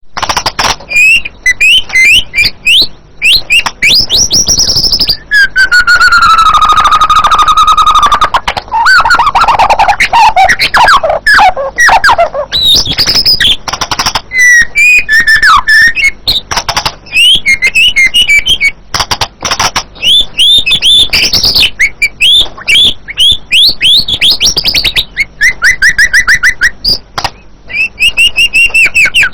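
White-rumped shama (murai batu) singing loudly and continuously. Its song is a varied string of whistled phrases: fast runs of short down-slurred notes and rapid trills, with one long whistle sliding down in pitch a few seconds in.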